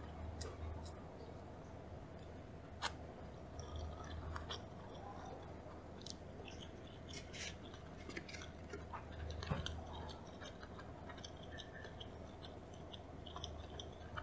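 Soft, close-miked chewing of a piece of yellowtail nigiri, with scattered small mouth clicks and a sharper click about three seconds in. A faint steady hum lies underneath.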